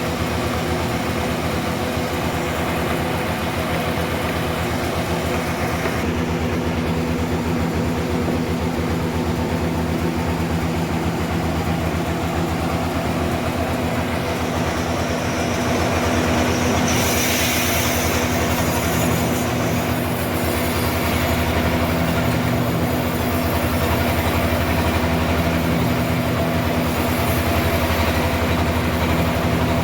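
Sawmill running steadily: an engine drone under a hissing saw noise, which grows brighter and louder about halfway through.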